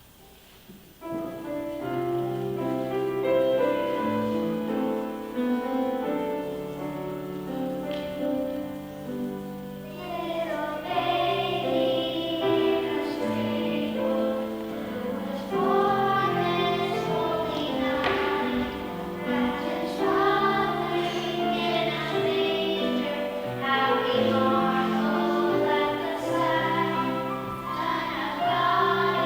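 A choir singing a song with accompaniment. The music starts about a second in with held steady chords, and the voices grow fuller from about ten seconds in.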